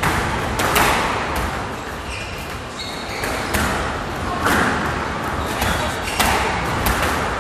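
Squash rally in an echoing court: sharp cracks of the ball off rackets and walls, coming irregularly every half second to a second or so, with a few short high squeaks between them.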